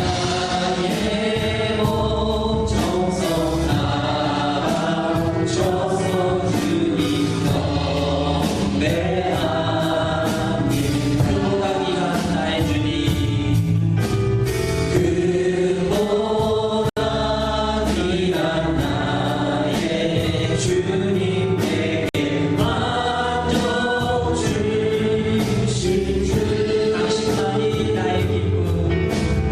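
A choir singing a Christian worship song over instrumental accompaniment with a steady beat. The sound cuts out for an instant about halfway through.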